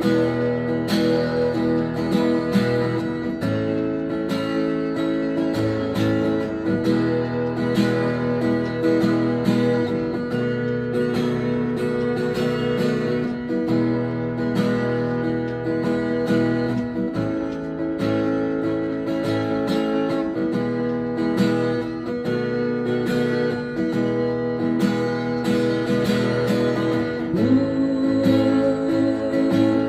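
Acoustic guitar strumming chords through an instrumental break in a slow ballad, with no singing.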